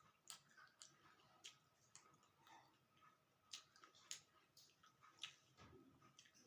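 Faint eating sounds: irregular soft clicks and smacks from chewing, scattered through near silence.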